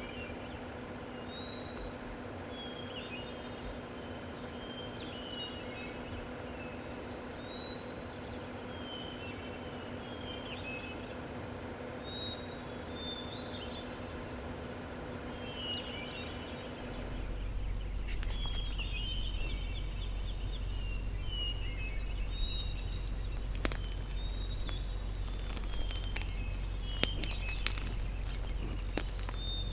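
Small birds chirping in short repeated calls, over a steady low hum. About halfway through the hum gives way to a low rumble and scattered sharp clicks while the chirping goes on.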